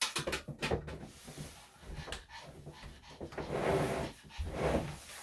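Knocks and rustling as a non-slip mat is handled and laid on a grooming table: a few sharp knocks at the start, then longer rustling swells about two seconds in and again near the end.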